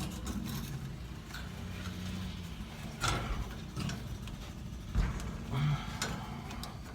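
Irregular knocks and clicks of a fuel pump assembly and its retaining ring being handled and fitted at the tank opening, the loudest a dull thump about five seconds in, over a steady low hum.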